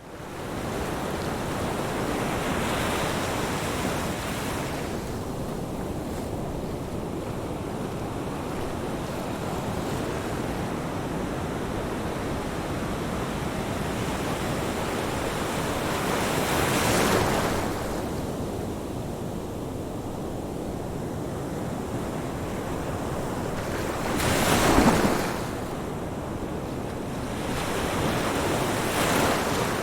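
Ocean waves washing on a shore, a steady rushing with surges of breaking surf every several seconds, the loudest about three-quarters of the way through.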